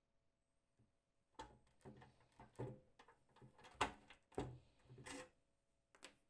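A series of light knocks and clicks, like a small door or lid being handled: several in a row from about a second and a half in, then one more near the end.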